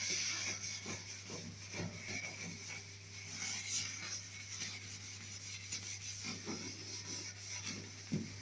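Steel-wool scourer scrubbing soap over a stainless-steel gas stove top, an uneven rasping rub of wire on metal that lifts dried-on grime, with a small knock near the end.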